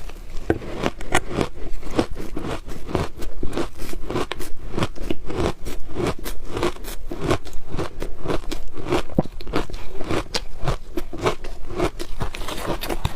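Close-up crunching of frozen shaved ice being bitten and chewed, a rapid run of sharp crackling crunches several times a second.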